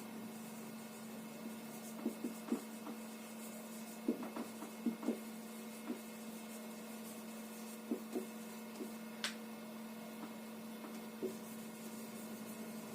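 Faint steady electrical hum with scattered short taps and light scrapes of writing, a dozen or so small strokes spread unevenly through the pause.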